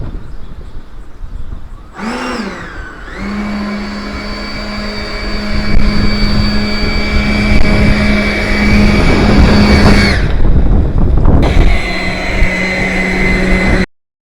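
Radio-controlled L-39 jet model's fan unit spooling up with a rising whine about two seconds in, then holding a steady high whine while it taxis. It dies away around ten seconds in, runs up again, and the sound cuts off abruptly near the end, all over a constant low rumble.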